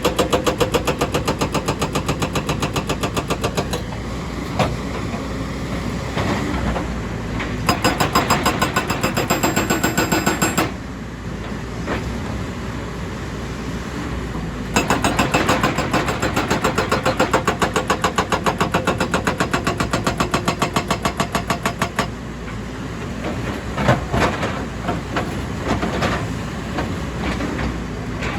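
Excavator's diesel engine running under load. Stretches of loud, rapid, even pulsing alternate with quieter, steadier running.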